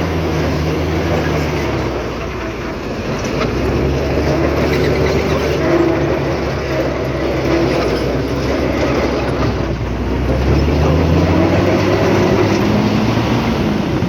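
Heavy diesel engine of earthmoving machinery running under changing load, its pitch dropping about two seconds in and rising again from about ten seconds in.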